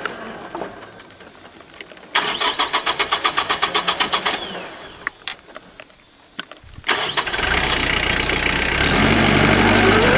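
SAME 35 hp turbocharged diesel tractor engine (Deutz-based). It runs down at the start, is cranked for about two seconds with a fast even chugging, and after a pause with a few clicks it starts about seven seconds in and runs, building up steadily. This is the hard-starting diesel that starts and then dies, on a weak external 12-volt fuel pump.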